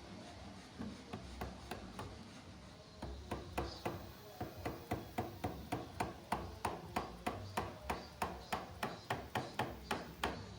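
Mallet striking a chisel, chopping wood out of a groove. A few light taps, then steady, even blows about three a second.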